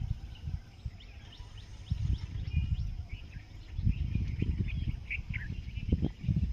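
Small birds chirping in short, scattered calls over a loud, irregular low rumble on the microphone.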